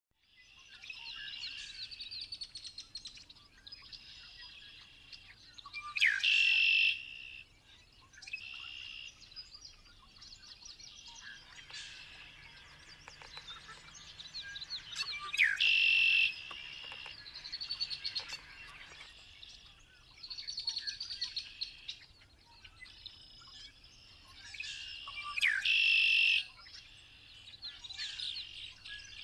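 Red-winged blackbird singing three times, about ten seconds apart, each song a short rising note followed by a held trill, over a steady chorus of other birds chirping.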